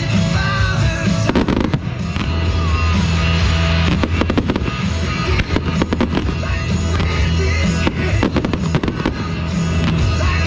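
Fireworks going off in quick succession, many sharp bangs and crackles, over loud music with a steady bass line.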